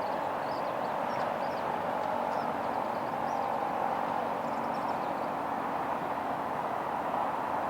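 A steady rumble of distant traffic, with faint, high, short bird chirps through the first five seconds.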